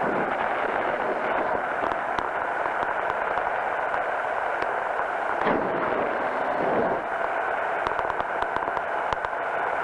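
Powered parachute's engine and propeller running steadily in flight, heard as a constant drone mixed with wind rush through the pilot's headset audio, with a few brief gusty thumps.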